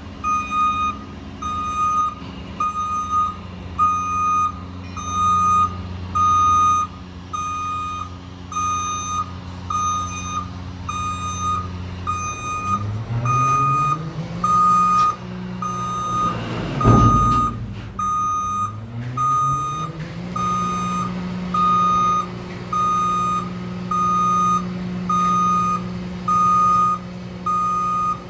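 Battle Motors LET2 garbage truck's backup alarm beeping steadily about once a second over its idling engine. About halfway through the engine revs up, a loud blast of noise lasting about a second comes at the peak, and the engine then settles back to idle.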